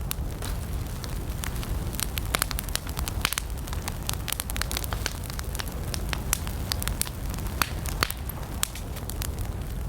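Campfire of burning wood crackling, with frequent sharp irregular pops and snaps over a low steady rumble of flame.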